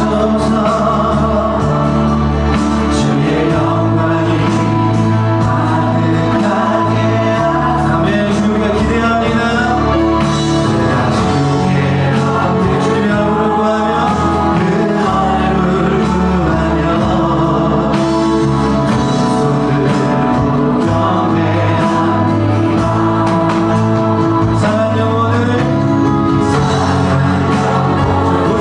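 Church worship song: voices singing together over a band, with held chords and a bass that changes every few seconds.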